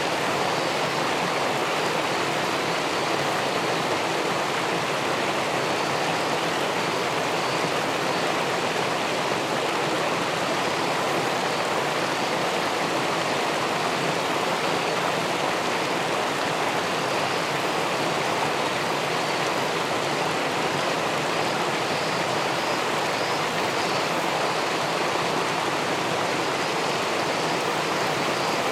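Steady rush of river water spilling over a low weir into the pool below, an even noise with no breaks or distinct splashes.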